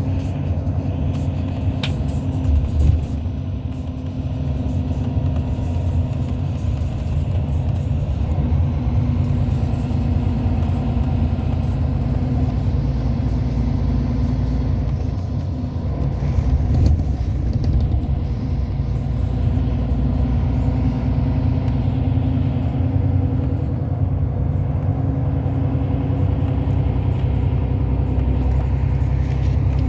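Hyundai Universe Space Luxury coach under way, heard from inside the cabin: a steady low engine drone and road rumble.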